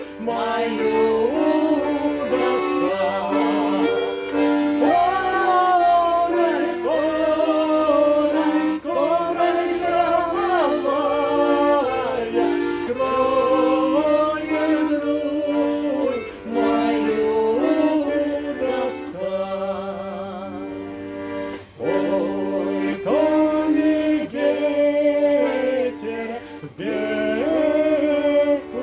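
Bayan (Russian button accordion) holding sustained chords under a sung melody of a Russian folk song, phrase by phrase with brief breaks between lines.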